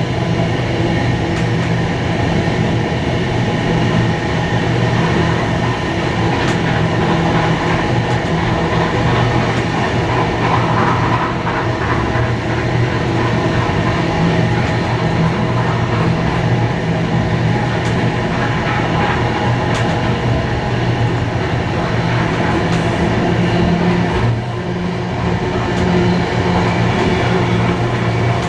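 Steam-hauled heritage train running along the line: a steady rumble of rail and running noise with a constant low hum, dipping briefly about 24 seconds in.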